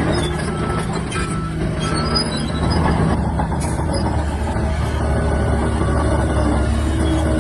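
Shantui DH17-C3 crawler bulldozer's diesel engine running steadily under load, with squeaks and clinks from its steel tracks.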